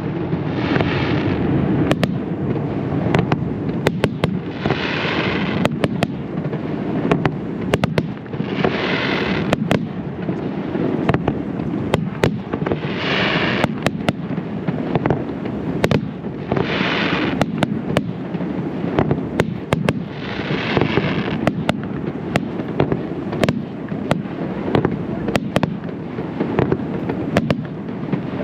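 Professional aerial fireworks display: a rapid, continuous barrage of sharp bangs over a steady low rumble, with a louder rushing swell about every four seconds.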